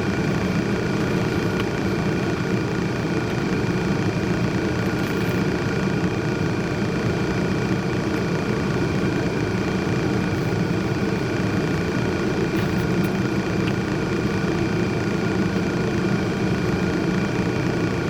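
A steady, unchanging mechanical hum and rumble, with no starts, stops or changes in pitch.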